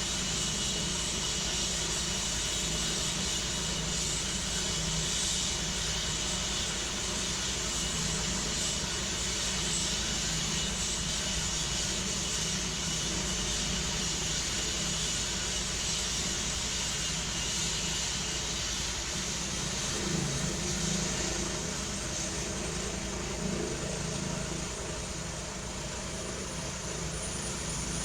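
Helicopter running steadily: a continuous engine noise with a thin high whine that fades out about two-thirds of the way through.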